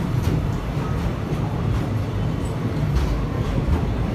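Passenger train running along the track: a steady low rumble with a few faint clicks.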